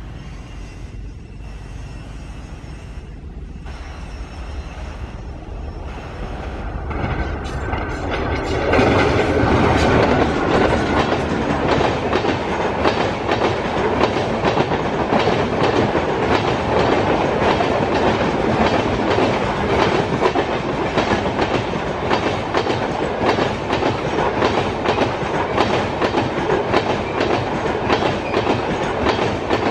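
An express train hauled by a WAP4 electric locomotive, with LHB coaches, approaching and growing louder over the first several seconds. From about nine seconds in it passes close by at speed, with a steady rapid clickety-clack of wheels over the rail joints.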